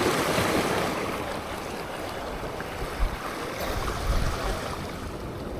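Waves washing and splashing at the shore, a steady rush of water, with wind buffeting the microphone in a few low thumps.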